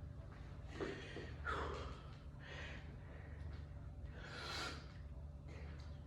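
A person breathing hard, about five forceful breaths in and out, from the strain of a one-arm anvil lift.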